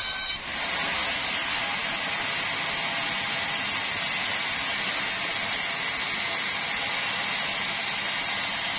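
Sawmill saw cutting steadily through a large meranti log, a continuous even hiss of blade in wood that starts about half a second in.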